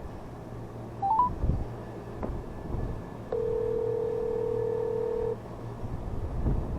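Electronic beeps from a handheld device: three quick notes stepping up in pitch, then a single steady beep held for about two seconds, over a low steady hum.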